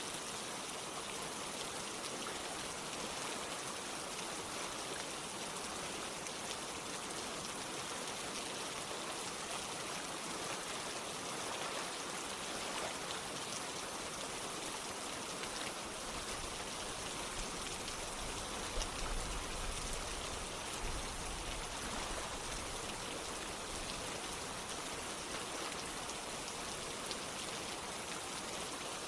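Steady rain and running water, an even hiss of rainfall over flowing water. A low rumble sits underneath for a few seconds past the middle.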